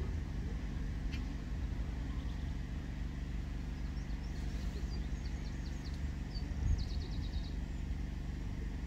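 Steady low outdoor rumble, with a small bird giving two short, rapid twittering trills, about four and seven seconds in.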